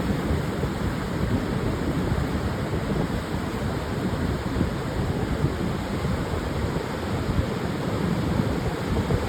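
Pacific surf breaking on a long sandy beach, a steady rumbling wash with wind buffeting the microphone.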